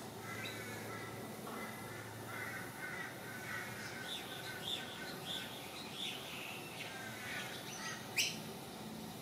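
Birds calling: a run of short, repeated calls, with a single sharp click near the end.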